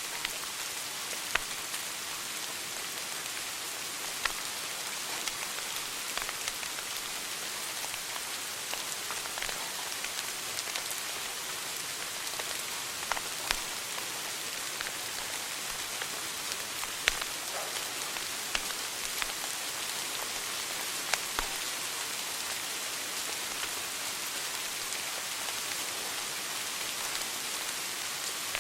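Wood fire crackling in a fireplace: a steady hiss with sharp pops at irregular intervals, several of them distinctly louder.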